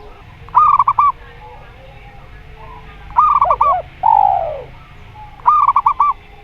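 Zebra dove song: three bursts of quick staccato coos, with a long falling coo just after the second burst.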